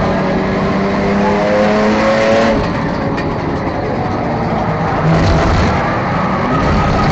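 A 4/6-cylinder enduro race car engine under racing load: its pitch climbs for about two and a half seconds, backs off, then pulls again about five seconds in.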